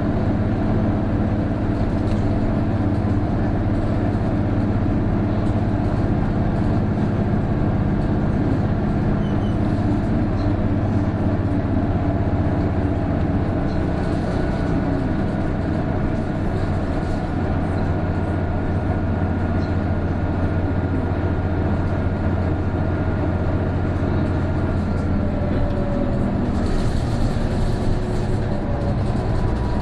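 Isuzu Erga (PJ-KV234L1) city bus heard from inside, its turbo diesel engine running steadily under load on the climb, with a faint whine above the engine note. This whine is the bus's characteristic abnormal noise, which comes in once the turbo builds boost from about 1300 rpm. About 26 seconds in, the engine note drops.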